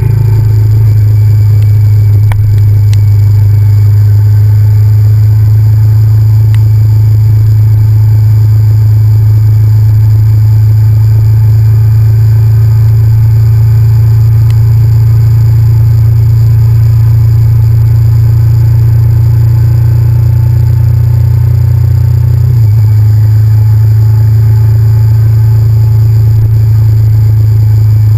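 Honda VTR1000F's 996 cc 90-degree V-twin engine running at a steady pitch, picked up loud by a camera mounted on the motorcycle. About 23 seconds in, the note steps down slightly.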